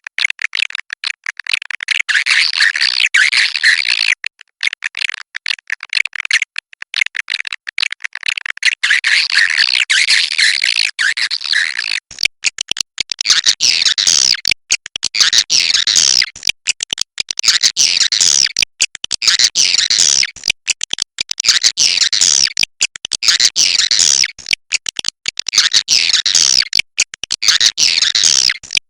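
Swiftlets twittering: a dense chatter of many overlapping high chirps, broken by frequent brief gaps.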